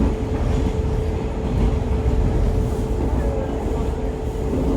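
Diesel railcar running along the line, heard from inside the passenger car: a steady low rumble with a constant hum over it.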